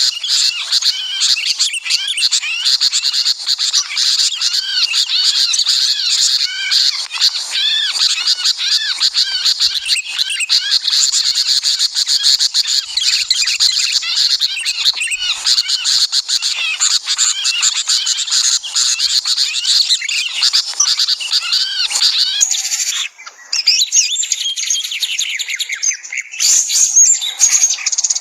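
Dense chorus of many small birds chirping and calling over one another, with a brief break and a change in the calls about 23 seconds in.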